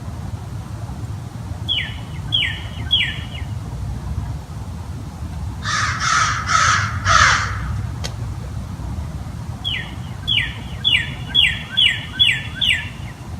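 A crow cawing three times, loud and harsh, about six seconds in. Around it a small bird gives quick downward-sliding chirps, three near the start and a run of seven near the end, over a steady low rumble.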